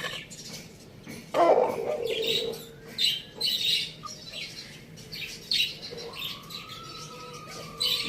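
Birds chirping in repeated short high bursts, with a louder, lower call about one and a half seconds in.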